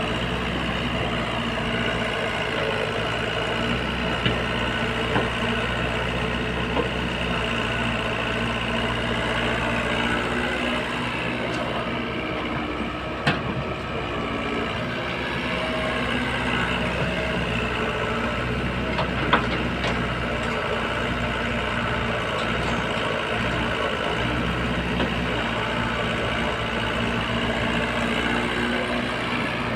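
Heavy earthmoving machine's engine running steadily, with a few sharp metal clanks now and then.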